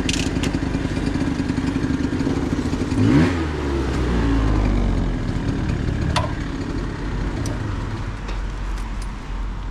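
A vehicle engine running. About three seconds in its pitch swings briefly, then it settles into a lower steady hum, with a few faint clicks over it.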